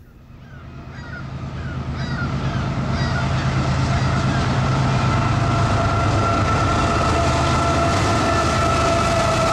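CSX freight train's diesel locomotives approaching and passing: their engine drone and rolling noise build over the first few seconds and then hold steady. A few short bird calls sound early on, and a thin steady high tone, like wheel squeal, joins from about four seconds in.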